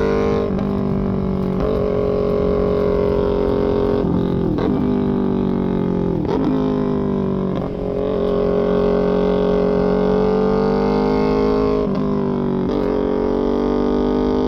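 Small parallel-twin sport motorcycle engine running through a full aftermarket exhaust, a loud steady drone that dips in pitch several times.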